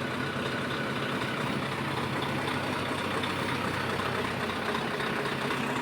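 A lorry's diesel engine running steadily at idle.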